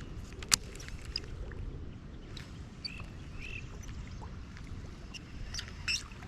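Outdoor ambience with a steady low rumble of wind or water noise, a single sharp click about half a second in, two short bird chirps around the middle, and a few clicks near the end.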